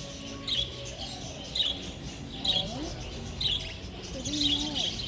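Small birds chirping: short, high chirps repeated about once a second.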